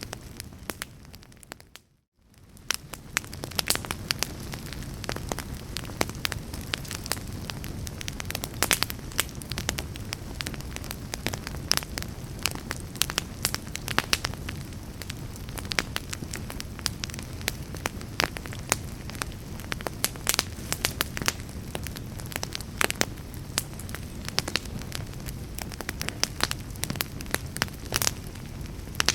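Fireplace fire crackling, with frequent sharp pops over a low steady rush of flame. The sound fades out briefly about two seconds in, then comes back.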